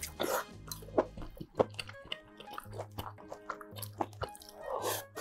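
A man chewing and biting a mouthful of food, with many short clicks of mouth noise, over background music.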